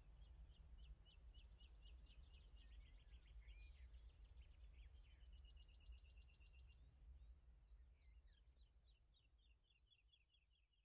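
Faint birdsong over a low outdoor rumble: small birds repeating quick, high chirps, with a rapid trill around the middle, fading out near the end.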